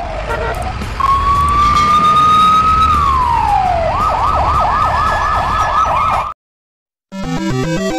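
Electronic police siren, loud: a slow wail that rises and falls, then switches to a fast yelp sweeping up and down about four times a second, and cuts off suddenly, with a low rumble underneath. Music begins near the end after a brief silence.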